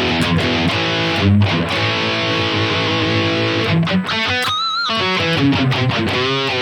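Distorted electric guitar played through a Bogner high-gain amp model on a digital modeling unit, with riffing and chords. About four and a half seconds in, a held note is shaken with vibrato, and near the end come bent, sliding notes.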